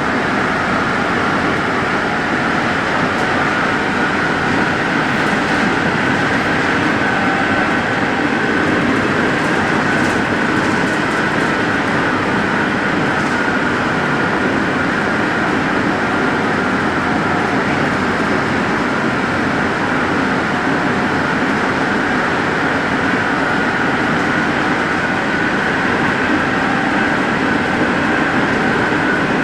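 Santiago Metro NS-74 rubber-tyred metro train running steadily, a continuous rumble with a faint steady whine.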